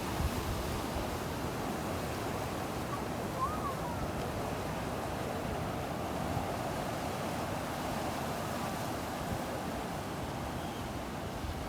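Ocean surf breaking and washing onto a sandy beach in a steady wash of noise, with some wind rumbling on the microphone.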